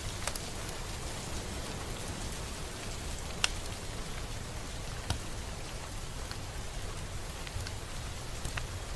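Steady rain falling, an even hiss, with a few louder single drops landing close by as sharp ticks, the loudest about three and a half seconds in.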